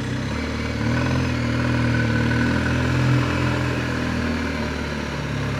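BMW R1250GS boxer-twin engine running at low road speed, its pitch stepping up slightly within the first second, holding, then easing off near the end.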